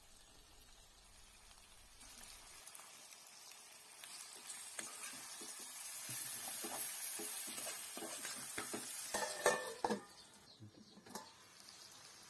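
Chicken and drumstick curry sizzling in a kadai while a steel spoon stirs it, with scattered scrapes and taps of the spoon on the pan. The sizzle builds, the spoon taps are loudest about nine to ten seconds in, and then the sound drops away.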